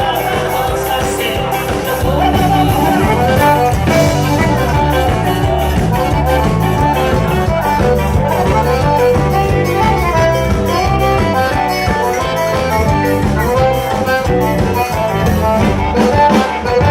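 Live band playing an instrumental passage of a forró song, with no singing: sustained melody notes over a steady, even beat.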